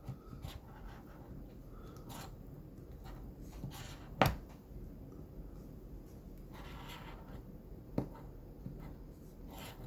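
Faint scraping of a scratch-off lottery ticket's coating being rubbed off in short strokes, with a sharp tap about four seconds in and a lighter one near eight seconds.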